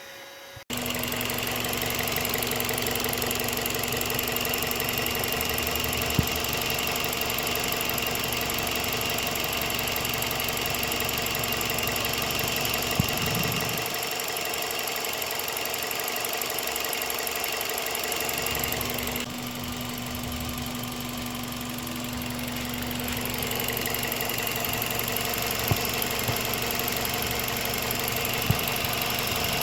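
Toyota Vios four-cylinder petrol engine idling steadily, with a faint hiss and a few single light clicks.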